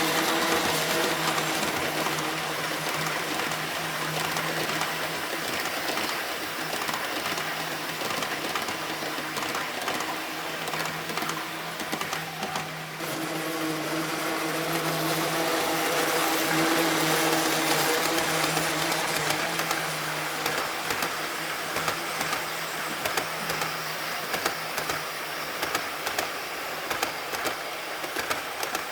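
Model train running: the electric motor drives of a pair of double-headed 1/45-scale DD51 diesel locomotives hum steadily while the wheels roll along the track. The sound swells and fades as the train moves, and short clicks from the wheels grow more distinct in the last few seconds.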